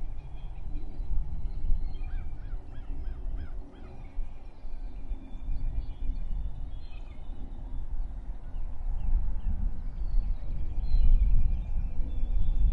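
Birds calling in the open, including a quick run of about six calls in a row a couple of seconds in, over a steady low rumble that grows louder near the end.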